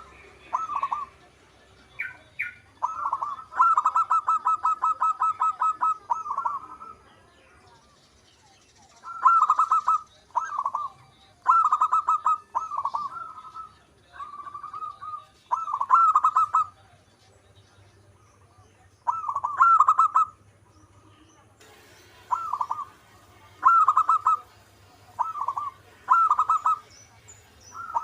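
Zebra dove cooing. A rapid run of about eight staccato coos a second gives way to short, repeated coo phrases with pauses between them.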